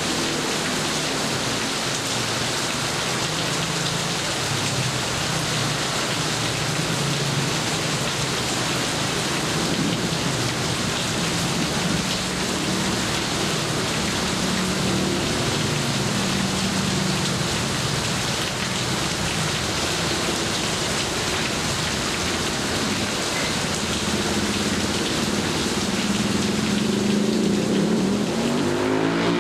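Steady heavy rain falling on surfaces, with a low drone that rises and falls underneath.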